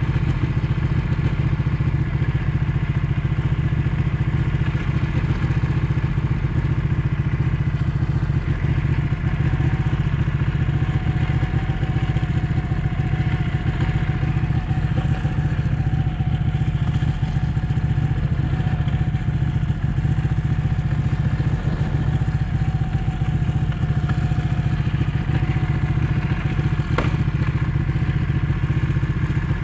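Ducati 1199 S Panigale's 1198 cc Superquadro L-twin engine running at a steady, nearly constant speed while riding, with little change in pitch throughout.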